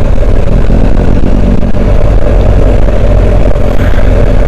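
Motorcycle engine running steadily while riding, from the rider's BMW R1250GS Adventure boxer twin, mixed with loud wind noise.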